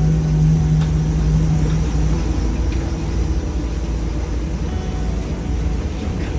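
School bus conversion's engine and road rumble heard from inside the cabin as the bus creeps along at low speed. A steady engine hum drops away about two seconds in, leaving a constant low rumble.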